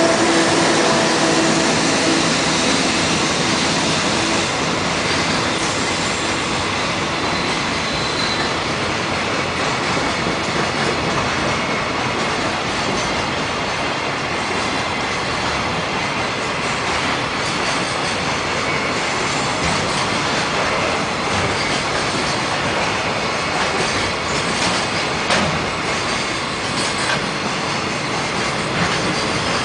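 JR Freight container train of Koki flatcars, hauled by an EF65 electric locomotive, running past at speed: a steady rush of steel wheels on rail with scattered rail-joint clicks. A humming tone at the start fades within the first few seconds.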